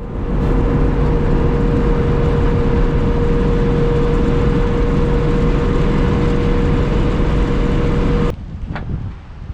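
1983 ex-Army Mercedes-Benz Unimog U1700L truck driving, its engine and drivetrain running loud and steady with a constant high whine over the rumble. About eight seconds in the sound cuts off abruptly to a much quieter, windy vehicle noise.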